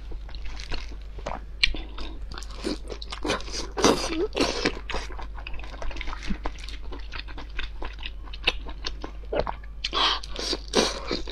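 Close-miked biting and chewing of sausages, with many short sharp mouth clicks and crackles, busiest around four seconds in and again near the end.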